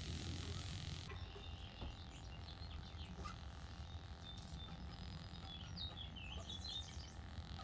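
Faint birds chirping in short high calls, mostly in the second half, over a steady low outdoor rumble.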